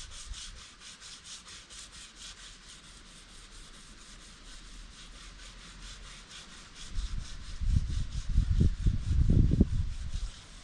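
Sandpaper rubbed back and forth by hand on a pickup truck's body before painting, a steady scratching of about four strokes a second. From about seven seconds in, louder low rumbling thumps come in over it.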